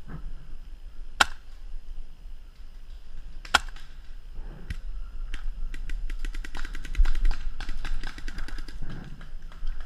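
Paintball markers firing: two single sharp shots in the first few seconds, then a rapid string of shots from about halfway through.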